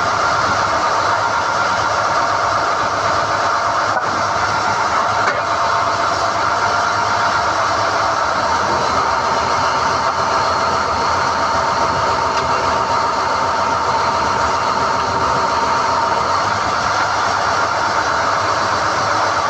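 SDH-1600 core drilling rig running steadily, with a continuous engine and hydraulic drive noise, while NQ drill rods are hoisted out of the hole.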